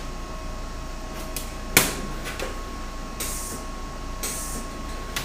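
A sharp knock a little under two seconds in, then two short hissing, crackling bursts of about a third of a second each: a MIG welder laying brief welds. A faint steady high hum runs underneath.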